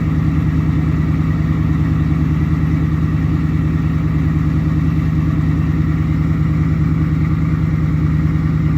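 2017 Ford F250 Super Duty engine idling steadily at an even pitch, running cold just after a start at 0°F.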